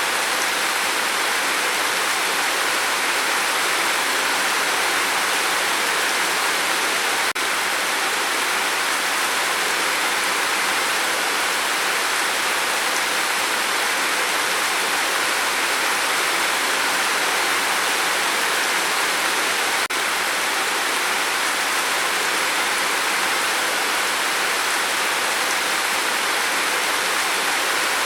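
Steady rain falling, an even hiss with no single drops standing out, broken by two tiny dips about a quarter and two thirds of the way through.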